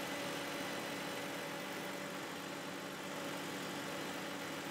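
Mercedes C280's 2.8-litre straight-six idling steadily, heard close up in the engine bay.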